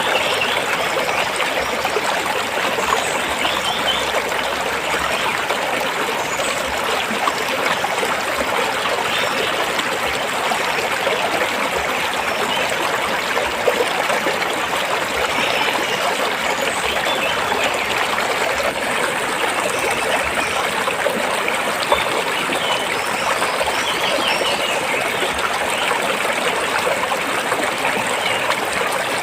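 Stream water flowing and trickling between rocks, a steady, even rush.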